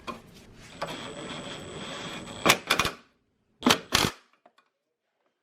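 Cordless drill or screw gun running for about two seconds, driving a self-tapping screw into the sheet metal of the engine bay, followed by a few sharp clicks and knocks of tool and metal.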